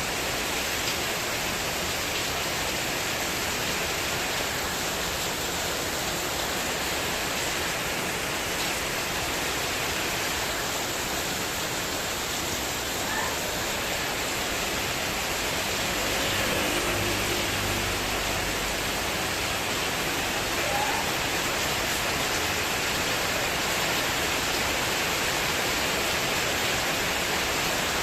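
Heavy rain pouring down on a spandek corrugated-metal porch roof in a windstorm, a steady dense hiss. About halfway through a low rumble swells in briefly.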